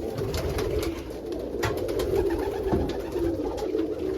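A flock of domestic pigeons cooing together in a small coop, a steady overlapping wavering murmur, with scattered light taps and clicks.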